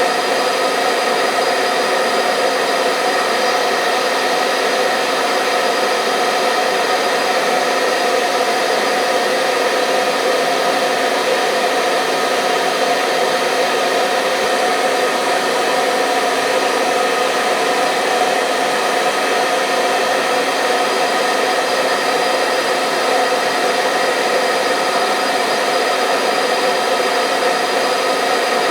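Hair dryer running continuously at a steady speed: a constant rushing airflow with the motor's whine.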